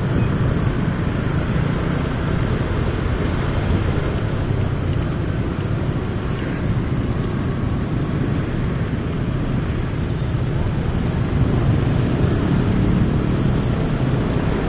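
Steady vehicle and road noise while riding a motorcycle through city traffic, with a constant low rumble.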